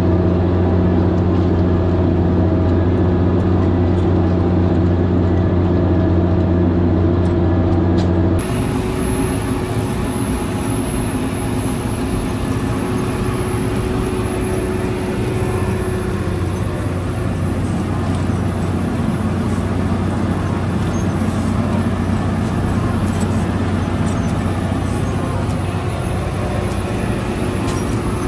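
Fendt 818 Turboshift tractor's diesel engine with an open exhaust pipe, running steadily under load while pulling a five-furrow plough through clay. About eight seconds in, the sound changes abruptly from a strong, even engine note to a rougher, noisier engine sound.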